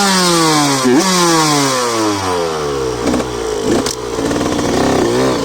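Two-stroke motocross bike engine revved sharply twice, about a second apart. The revs then fall away over a couple of seconds and settle into lower, uneven running.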